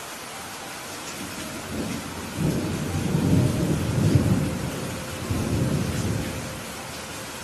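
Steady rain with a long roll of thunder that swells in about two seconds in, peaks midway, and rumbles off again before the end.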